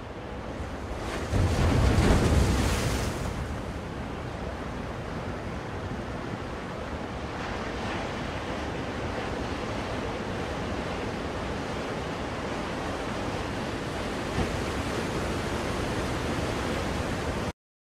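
Ocean waves washing in as a steady rush, with one louder wave surging about a second and a half in. The sound cuts off suddenly near the end.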